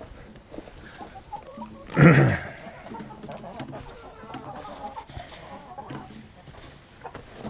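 Hens clucking in a chicken coop, with one short, much louder sound about two seconds in.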